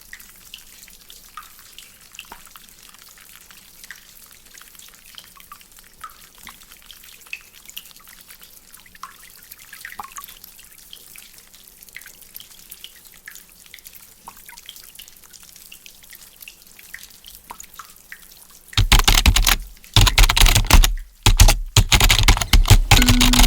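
Water from a drainpipe dripping in faint, irregular drops. About nineteen seconds in, a sudden loud rushing noise takes over and cuts out briefly a few times.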